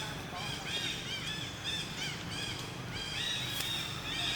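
Rapid string of short, high-pitched squeaky animal calls, each rising and falling in pitch, several overlapping, over a steady low hum.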